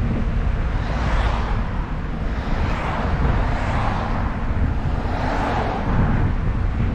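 Wind buffeting the microphone while cycling: a heavy low rumble, with a rushing hiss above it that swells and fades about three times.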